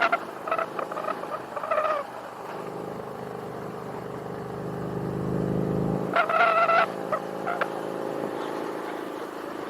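Motorcycle engine pulling through the revs, its pitch rising and growing louder for a few seconds before dropping away at about six seconds in. Short pitched blasts sound at the start and again about six seconds in.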